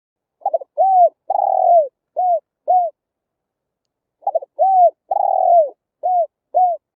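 Spotted dove cooing: two identical phrases, the second starting about four seconds in. Each phrase is a quick double note, a coo, a longer wavering coo that falls in pitch, then two short coos.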